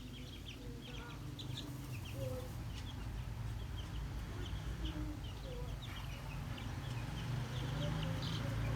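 Chicks peeping in many short, high chirps while a hen clucks low now and then, over a steady low rumble that grows louder near the end.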